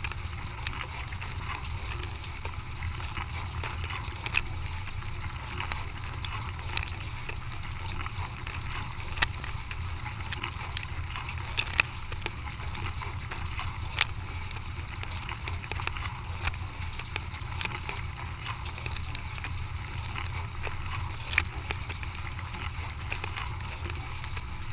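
Dishwasher running: a steady low motor hum under the hiss of water spraying inside, with scattered sharp clicks and ticks.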